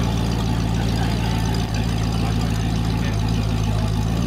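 Arash AF10 supercar's engine idling steadily through its quad exhaust pipes, a loud, deep, even note with no revving.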